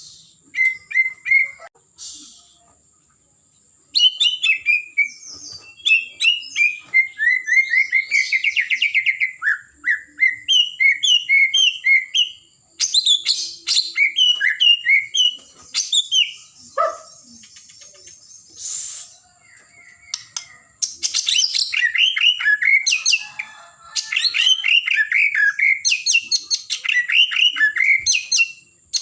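White-rumped shama singing: loud, varied phrases of rapid whistled notes that sweep up and down, delivered in bursts with short pauses between them.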